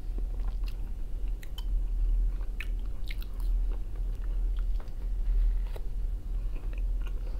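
A man chewing a mouthful of fried potatoes and bread: soft chewing with many scattered short, sharp mouth clicks, over a steady low hum.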